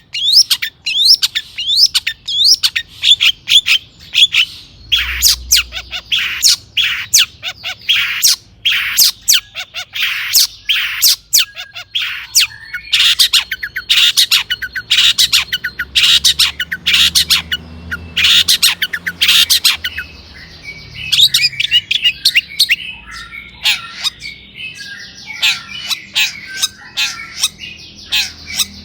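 Long-tailed shrike (cendet) singing hard: a fast, loud string of sharp, harsh chattering notes. About two-thirds of the way through, it turns into a denser, run-together warble.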